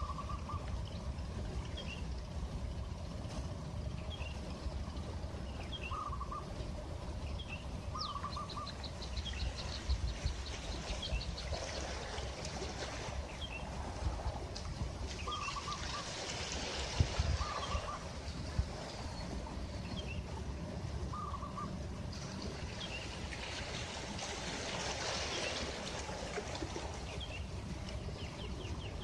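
Sea waves washing up on a beach, slow surges of hiss over a steady low rumble, with birds calling: short two-note calls repeated every few seconds, small high chirps, and a rapid high trill.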